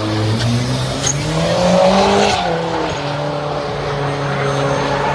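Car engine accelerating hard, its pitch climbing for about two seconds and loudest near the top, then dropping to a steady lower note.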